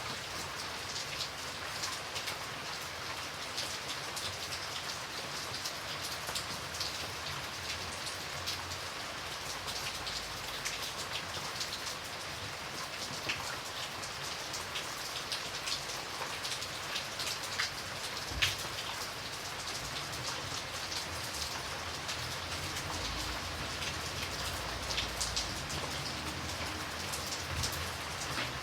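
Steady rain falling, a constant hiss with many distinct drops ticking on a hard surface.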